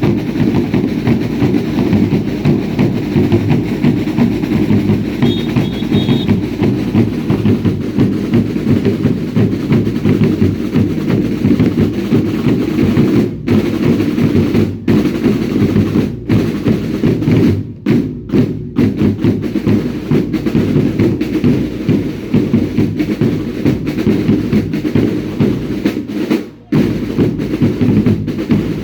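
Drums of a baile indio dance troupe beaten together in a dense, steady rhythm, with a brief break near the end.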